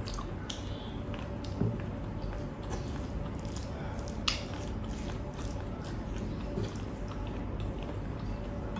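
A person chewing and biting food close to the microphone, with scattered sharp clicks, the loudest about four seconds in, over a faint steady hum.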